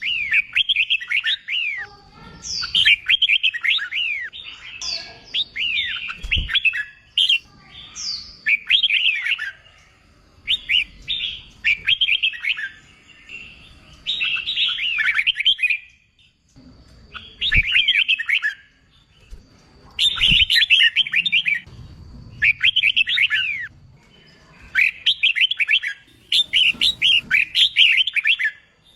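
Red-whiskered bulbul singing its competition song: short, loud phrases of quick whistled notes, one after another with brief pauses. A few faint thumps come between phrases.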